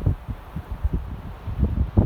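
Wind gusting hard against the microphone in a snowstorm, heard as irregular low buffeting rumbles, with a strong gust near the end.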